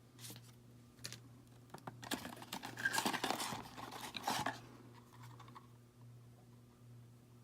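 Unboxing handling noise from the fan's packaging: a few light clicks, then about two and a half seconds of scraping and rustling, over a faint steady hum.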